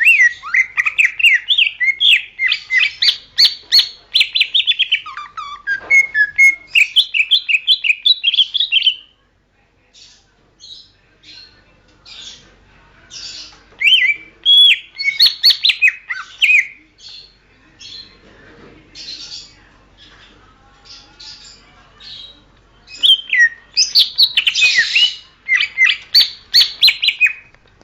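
Green leafbird (cucak ijo) singing: three long bursts of rapid, varied warbling and chattering notes, with shorter single calls in the gaps between them.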